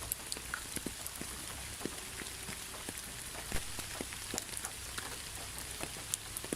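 Steady rain: an even hiss with many separate drops landing at random, one louder drop about halfway through.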